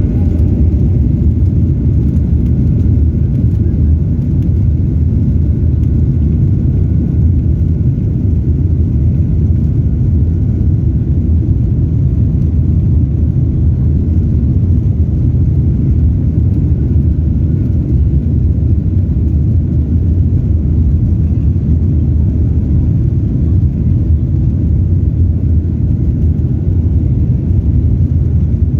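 Airplane engines at takeoff power: a loud, steady low rumble.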